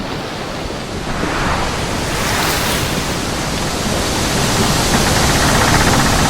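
A steady rushing noise, growing louder from about a second in.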